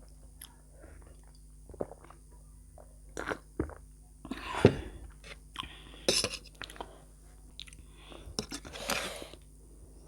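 Close-miked chewing and crunching of crunchy spicy chatpate, with many small clicks and a few louder bursts about halfway through and near the end.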